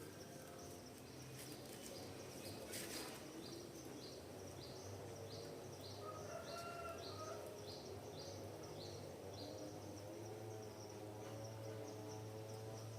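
Faint forest ambience: a songbird repeats short, falling high notes about twice a second for several seconds, over a steady insect buzz and a low hum. A single short click comes about three seconds in.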